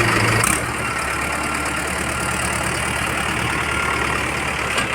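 Heavy diesel engine of a digger or tractor running steadily; about half a second in its note drops lower as the revs ease, and it then holds steady.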